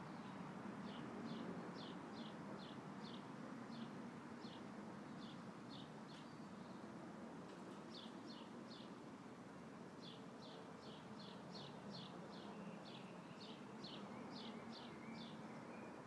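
Faint outdoor ambience: wind rustling the leaves of a tree in a light breeze, with an animal chirping in repeated short high notes, two to three a second, that break off briefly a few times.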